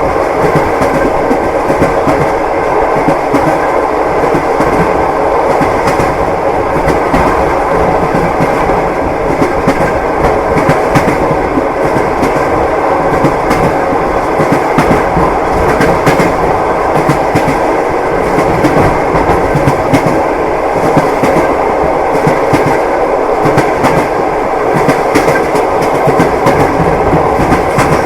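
Clickety-clack of train wheels on the rails over a steady rumble of the moving carriage, heard from inside a passenger compartment.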